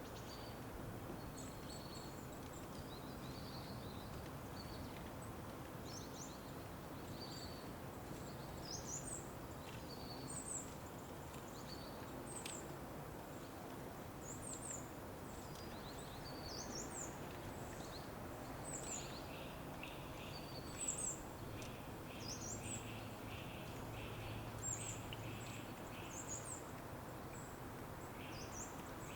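Songbirds chirping over a steady background hiss: short high chirps recur throughout, and about two-thirds of the way in a quicker run of lower repeated notes joins them.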